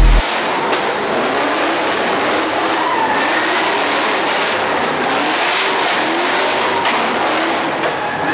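Car engine running hard with tyres skidding and squealing, heard as a steady rush of noise with faint rising and falling pitch glides.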